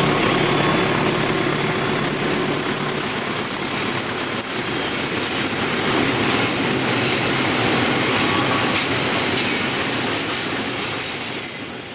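A train passing close by: a steady rolling clatter of wheels on the rails, with a thin high squeal from the wheels on the curve. It fades out near the end.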